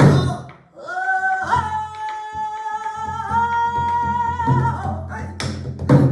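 Pansori singer holding long, wavering sung notes on an open vowel, with sharp strokes of the buk barrel drum at the start and again near the end.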